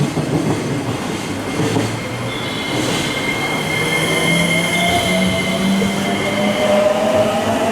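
Electric commuter train moving through the station: rumbling wheels on rail, a high steady wheel squeal from about two and a half seconds in to about seven, and a motor whine rising in pitch near the end.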